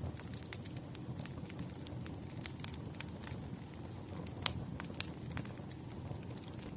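Wood fire burning in a fireplace: a steady low rumble of flames with frequent irregular sharp crackles and pops, one louder pop about four and a half seconds in.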